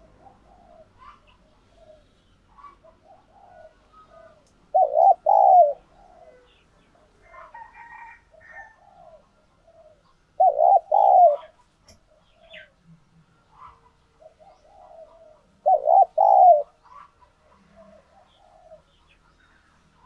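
Spotted dove cooing: three loud, rolling coo phrases about five seconds apart, each lasting around a second, with fainter coos and chirps in between. This is a tame decoy dove's call, used to lure wild doves.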